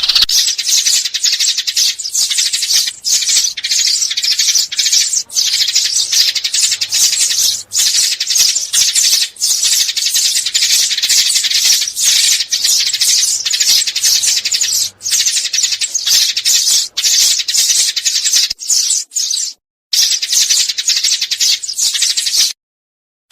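Sparrows chirping in a dense, fast, rattling chatter, a sparrow call recording of the kind played as a lure for trapping. The chatter cuts out twice briefly near the end.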